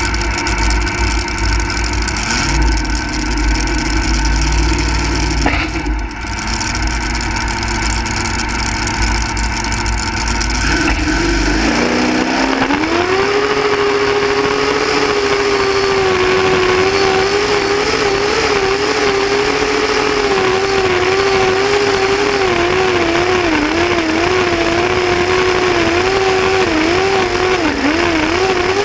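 Engine of a single-engine modified pulling tractor running at lower revs with a heavy rumble. About twelve seconds in it revs up quickly to a high, sustained pitch that wavers slightly and holds until near the end.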